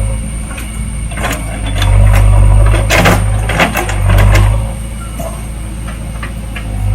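JCB 3DX backhoe loader's diesel engine running, swelling louder twice as it works under load, with a few sharp knocks and clanks.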